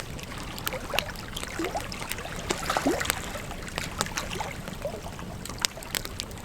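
Campfire crackling, with sharp pops of burning wood at irregular intervals over a low steady rush. A few short, faint rising squeaks come near the middle.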